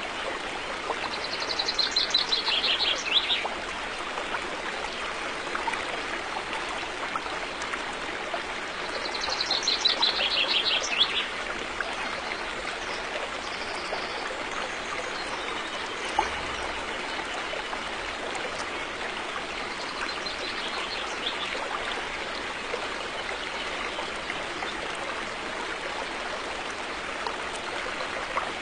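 River water flowing steadily. A small bird sings a fast trill about a second in and again near nine seconds, each lasting about two seconds and stepping down in pitch, with a fainter trill about twenty seconds in.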